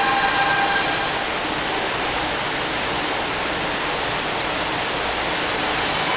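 Kyoto subway 50 series train running: a steady roar of wheels on rails, with a pitched motor whine that fades out about a second in.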